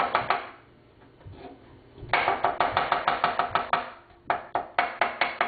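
Kitchen knife chopping garlic on a cutting board: quick runs of rapid strikes, about seven a second, broken by a pause of about a second and a half after the opening strokes.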